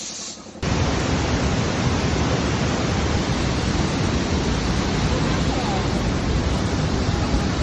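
Waterfall, a steady rush of falling water that comes in abruptly about half a second in and holds even throughout.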